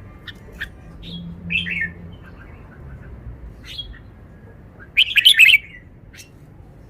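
Red-whiskered bulbul singing: a series of short chirps, then its loudest burst of notes about five seconds in and one last short note.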